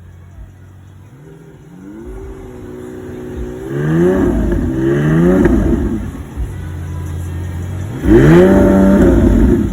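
Sports car engine revving: the revs climb a couple of seconds in, blip up and down several times around four to five seconds in, then rise into a loud held rev near the end that cuts off sharply.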